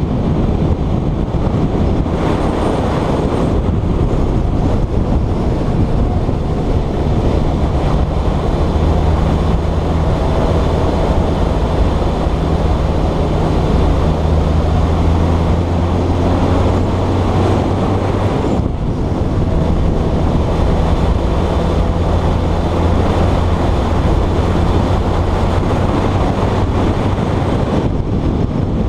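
Motorcycle engine running steadily under way, with wind rushing over the microphone. The engine note drops out briefly about two-thirds of the way through, then picks up again.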